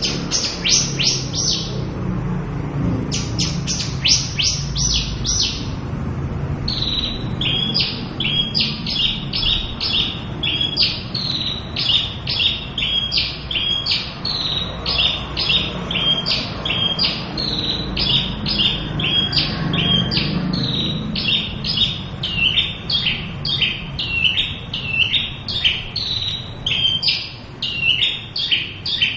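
Javan bush lark singing. It opens with quick runs of high, downward-sweeping notes, then settles from about a quarter of the way in into a long string of repeated two-part chirps, about one and a half a second, over a low background rumble.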